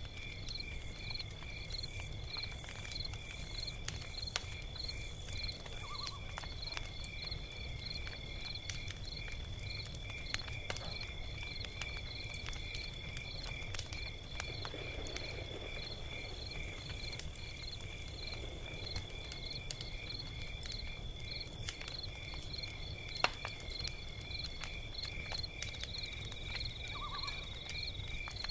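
Log fire crackling with scattered sharp pops, one louder pop near the end, over a low rumble. Steady rhythmic high chirping of crickets runs underneath.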